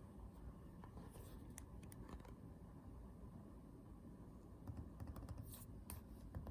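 Faint, scattered key clicks from the newly replaced butterfly keyboard of a 2016/2017 13-inch MacBook Pro (A1708), pressed in short runs as the keyboard is tested after the repair. The clicks bunch about a second in and again about five seconds in.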